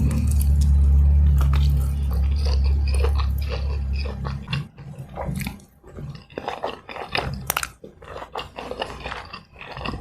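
Close-miked eating: bites, crunches and chewing of fried snacks, sharp clicks and crackles that grow busier after a low steady drone fades out about four and a half seconds in.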